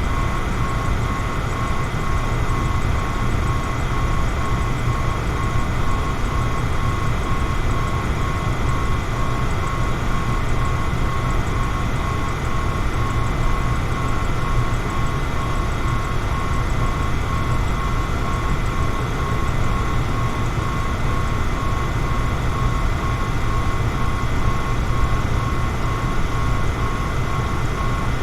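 Electric fan running steadily: an even rush of air with a low rumble underneath and a thin, steady whine.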